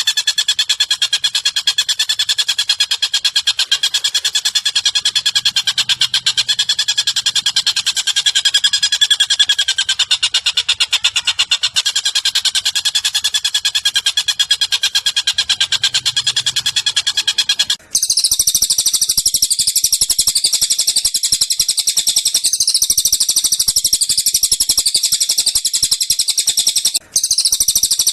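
Looped recording of bird calls, a continuous very fast chattering run of repeated notes. About two-thirds of the way through it cuts abruptly to a higher-pitched rapid trill, with a brief dropout near the end.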